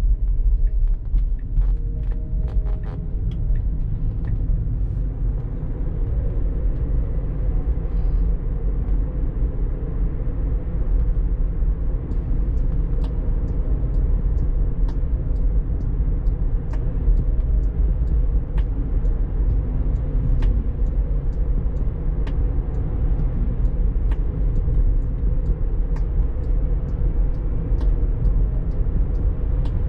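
Steady low road and tyre rumble inside the cabin of a moving Tesla Model 3, an electric car with no engine sound, with faint scattered ticks.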